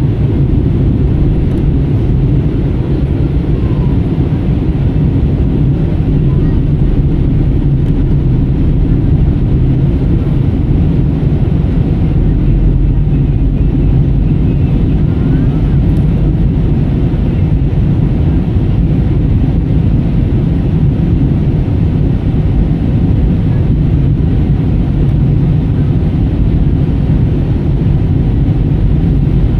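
Steady low rumble of an airliner in flight, heard inside the passenger cabin: engine and airflow noise holding an even level throughout.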